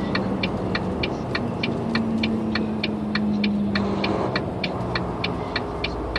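Truck cab interior with the engine running at low speed and a regular, rapid ticking of about three ticks a second, like a turn-signal indicator flasher.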